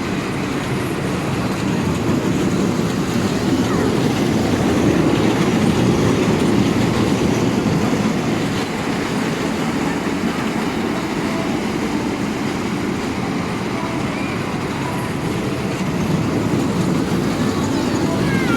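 A train running along its track with a steady rumble, and faint wheel squeals near the end.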